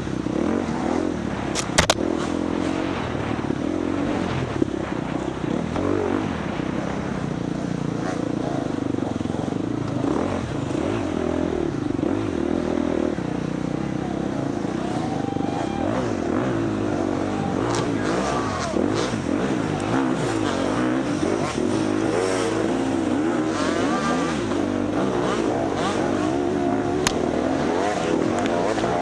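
Four-stroke single-cylinder dirt bike engine running hard off-road, its revs rising and falling continuously as the rider works the throttle. A few sharp knocks cut through, the loudest about two seconds in.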